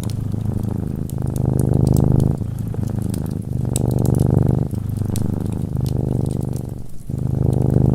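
Cat purring steadily, the low rumbling purr swelling and easing with each breath about once a second. Light fireplace crackles tick over it.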